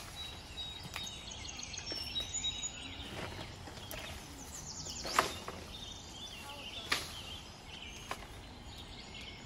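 Birds chirping over a steady outdoor background, with several sharp knocks scattered through it, the loudest about five seconds in.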